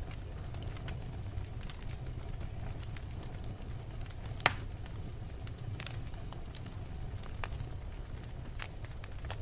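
Wood fire burning in a fireplace, with a steady low rumble of flames and scattered crackles from the logs. One sharp, loud pop comes about halfway through.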